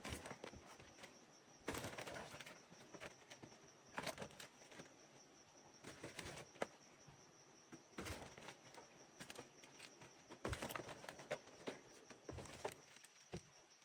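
Faint handling noise: scattered light clicks and knocks with short bursts of rustling every few seconds, over a steady faint high-pitched tone.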